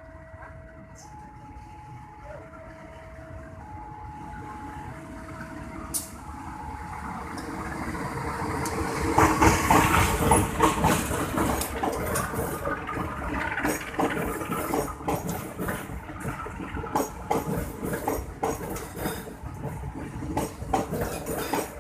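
A train runs past close by. Its wheels clatter over the rail joints, and the sound builds to its loudest about ten seconds in and stays loud. At the start an alternating two-note electronic chime sounds and fades out within the first several seconds.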